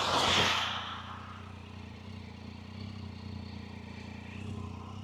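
Motorcycle engine running steadily at low road speed, heard from the rider's helmet microphone with some wind rush; a brief gust of wind noise in the first second.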